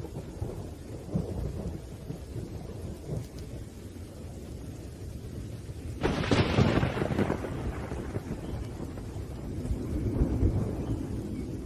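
Thunderstorm with steady rain and low rolling thunder; about six seconds in a sharp, loud thunderclap breaks and rumbles away over a couple of seconds, and the rumble swells again near the end.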